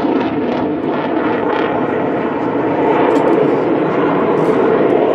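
Eurofighter Typhoon's twin EJ200 jet engines, a loud, steady roar of jet noise as the fighter flies its display.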